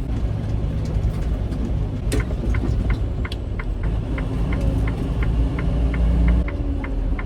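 Semi-truck diesel engine running steadily, heard from inside the cab while driving. From about two and a half seconds in, a light, regular ticking comes in at roughly three ticks a second.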